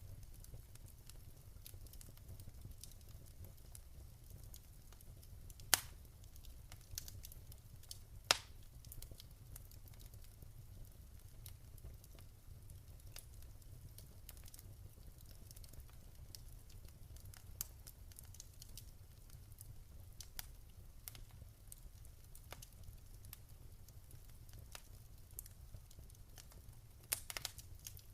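Wood fire crackling: scattered small snaps and pops over a low steady rumble, with two louder pops about six and eight seconds in and a quick cluster of snaps near the end.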